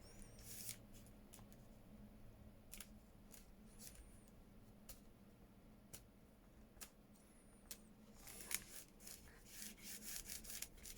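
Faint rubbing and rustling of paper and fabric being handled and pressed down by hand, with scattered light clicks; the rubbing gets louder over the last few seconds.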